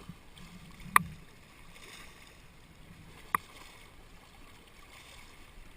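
Kayak being paddled on a river, with a soft wash of water from the strokes and two sharp knocks, one about a second in and one past three seconds.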